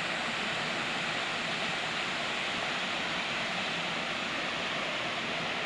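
Steady rush of running water, an even hiss-like noise that holds at one level throughout.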